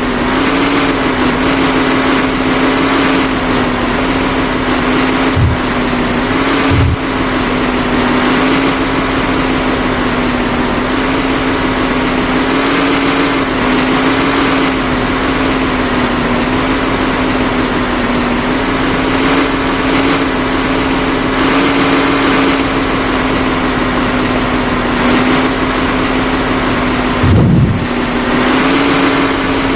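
An engine or motor running steadily at a near-constant pitch, with a few dull low thumps.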